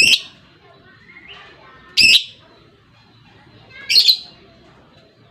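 Lovebird giving three short, shrill calls about two seconds apart, with faint chatter between them.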